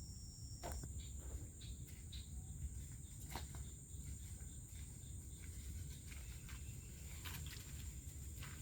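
Steady high-pitched drone of insects, with scattered light crunches of footsteps on the trail.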